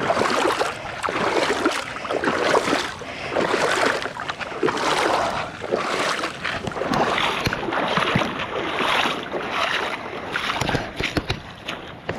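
Footsteps wading and splashing through shallow tidal water in an estuary, about one sloshing step a second.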